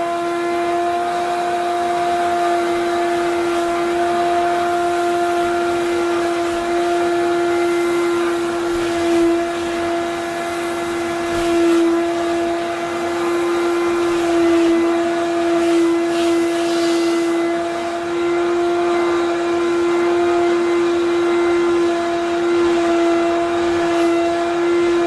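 Wet vacuum cleaner's motor running at speed: a steady, loud whine at one pitch, with the level swelling slightly now and then.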